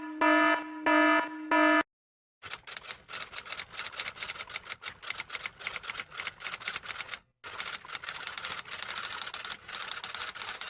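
A few short pitched electronic beeps, then rapid irregular key clicks of typing for most of the rest, broken once by a brief pause.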